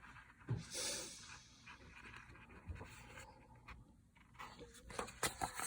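Faint handling of a book's paper pages: soft rustling and a few light clicks, mostly near the end.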